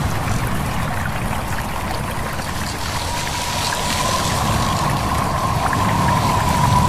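Stream water running and trickling under a steady rush of wind. A thin, steady whistling tone sits above it and grows clearer in the second half.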